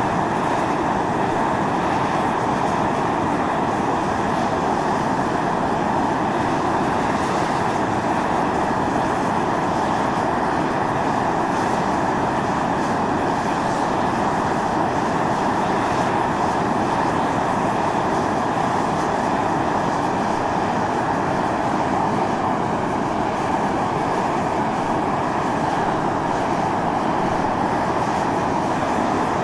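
Volcanic fumarole venting steam and gas under pressure: a steady, unbroken rushing hiss.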